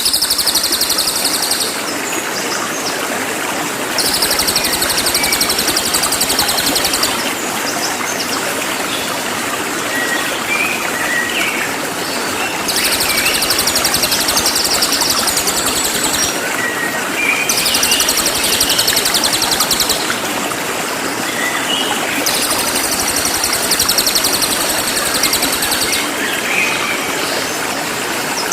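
Cililin bird singing loud, very high-pitched, rapid trills ('nembak'), in bursts of about two to four seconds with short pauses between. Under it runs a steady rushing background noise, with a few short chirps from other birds.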